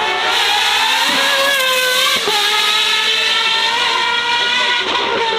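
Racing car engine at high revs under hard acceleration. The pitch climbs, drops sharply about two seconds in at an upshift, then climbs again and levels off near the end.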